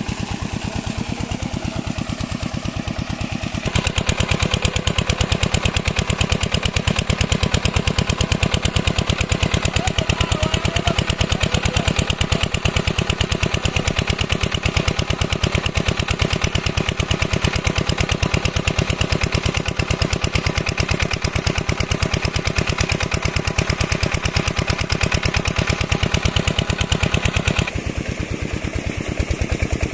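Single-cylinder diesel engine of an 8 hp water pump set running steadily with a fast, even knocking exhaust beat. It grows louder and sharper about four seconds in and falls back a couple of seconds before the end.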